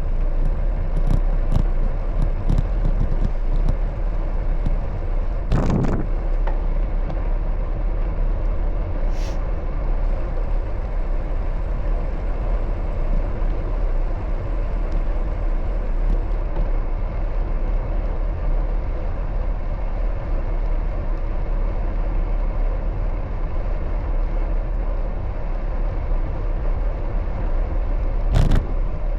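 Steady wind and road noise from riding a bicycle along a city street, with a heavy low rumble of wind on the microphone and passing traffic. A few sharp clicks come in the first seconds, and two short louder thumps land about six seconds in and near the end.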